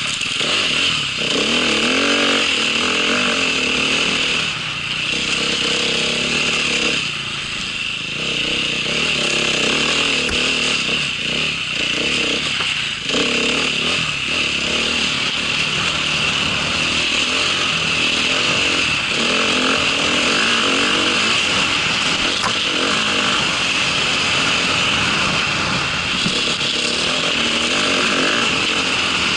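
A small vehicle engine running under way, its pitch rising and falling with the throttle, with a steady high hiss throughout.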